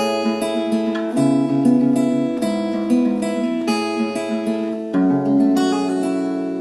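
Acoustic guitar strummed in chords, with a steady run of strokes. About five seconds in it changes chord, and that last chord is left ringing.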